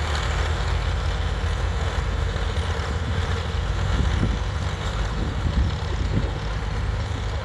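Tractor engine running steadily with a low pulsing note.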